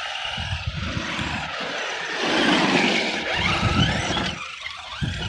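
Redcat Shredder 6S electric RC monster truck being driven over mud and dirt, its motor whining and its tyres churning. It gets louder from about two seconds in.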